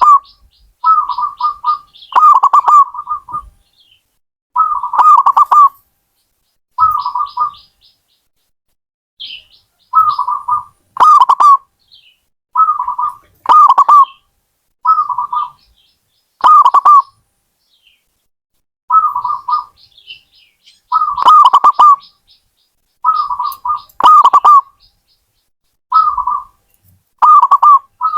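Zebra dove (perkutut) cooing: short phrases of rapid coos, each about a second long, repeated again and again with brief pauses between them. Fainter, higher chirping runs in some of the gaps.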